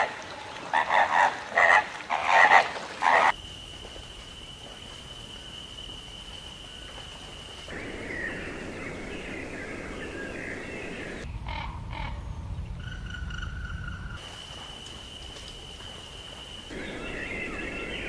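A montage of bird calls cut together. Loud, repeated calls fill the first three seconds. A steady high trill follows, and it alternates with bursts of twittering for the rest of the time.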